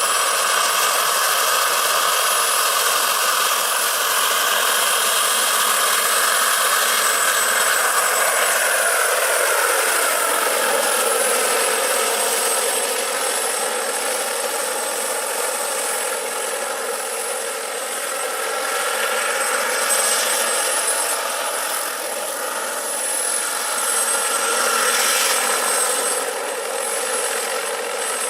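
Large RC scale SA-319 Alouette III model helicopter's small turbine engine running with a steady high whine, together with the rotor. A lower tone in the sound glides down in pitch about eight to ten seconds in, then holds steady.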